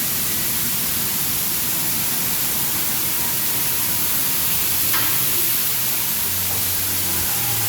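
Water spray from a Washworld Razor touchless car wash's overhead bridge hissing steadily on the car, heard from inside the car. A low steady hum comes in about six seconds in.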